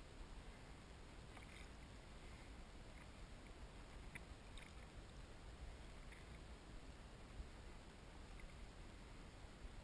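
Near silence on the water: faint lapping around a kayak, with a few soft ticks.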